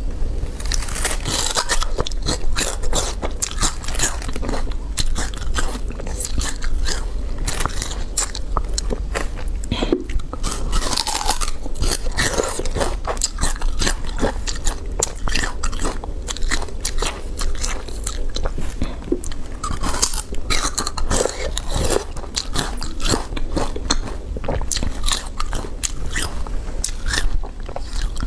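Peeled sugarcane being bitten and chewed right at a lapel microphone: a close, continuous run of crisp crunches as the fibrous stalk is broken down.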